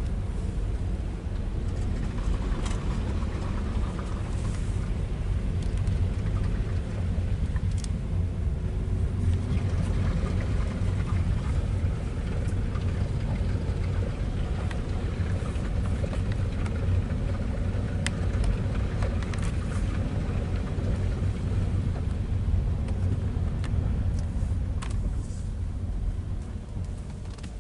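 Steady low rumble, with a few light clicks scattered through it.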